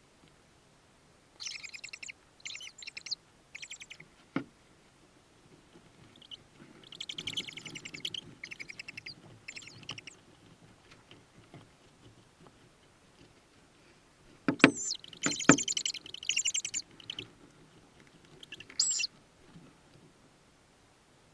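Tawny owl chicks making high, rapid chittering calls inside the nest box, in several bursts of a second or two each. A few sharp knocks come between them, the loudest about fifteen seconds in.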